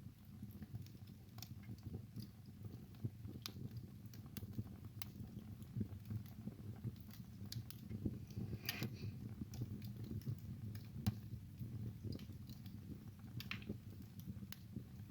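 Wood fire burning in a fireplace: a steady low rumble of flame with irregular sharp crackles and pops throughout. There is a brief hiss about nine seconds in and another near the end.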